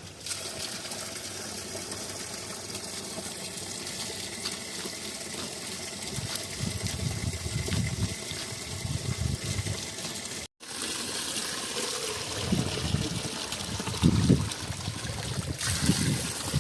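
Water running and splashing in a steady rush. The sound breaks off for an instant about ten seconds in, and low rumbles come in over it near the end.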